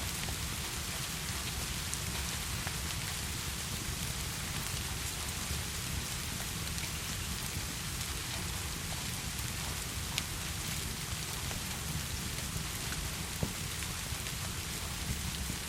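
Steady heavy rain, a dense even hiss, with a few sharp crackles from a fireplace scattered through it.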